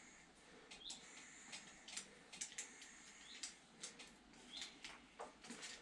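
Faint, high bird chirps, short rising calls every second or two, among scattered light clicks.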